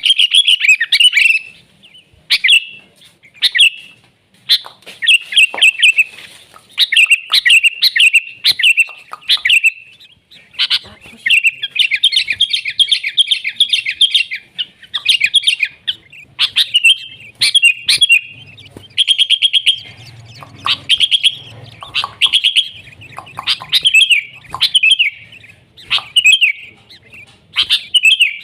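Sooty-headed bulbul singing: short phrases of quick, bubbling chirps repeated about once a second, with a longer unbroken run of notes about halfway through.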